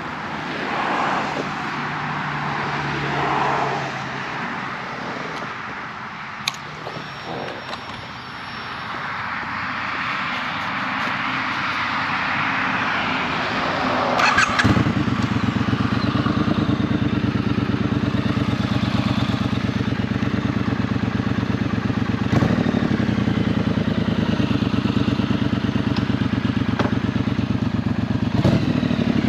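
Passing traffic and a click at first. About halfway through, a Triumph Street Twin's 900 cc parallel-twin engine starts and settles into a steady idle.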